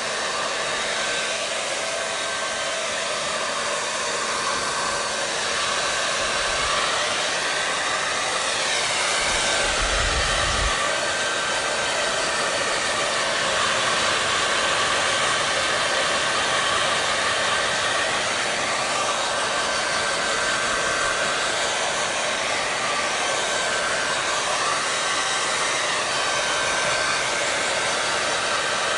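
Hair dryer running steadily: an even rush of blown air with a constant motor whine, its tone sweeping slowly a couple of times. A brief low rumble comes about ten seconds in.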